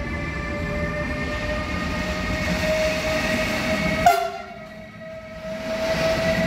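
Freight train locomotive running with a steady whine that rises slightly in pitch, over low rumbling. About four seconds in there is a sharp click and the rumble drops away abruptly while the whine carries on.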